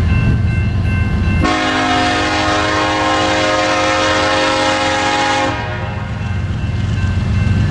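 Diesel freight locomotive passing with a loud low engine rumble, sounding its multi-chime air horn in one long blast of about four seconds, beginning about a second and a half in.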